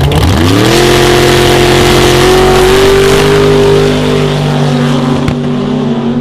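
Drag-racing car's engine revving up sharply and held at high revs under full throttle, loud, easing off after about four seconds.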